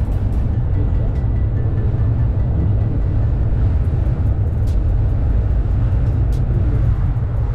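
Steady low rumble of an AREX airport-railway train running at speed, heard from inside the carriage.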